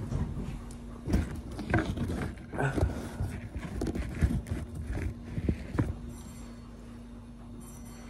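Commuter train running, a steady low hum and rumble inside the carriage, with irregular knocks and rustles of the camera being handled against a denim jacket for the first several seconds, then only the train hum near the end.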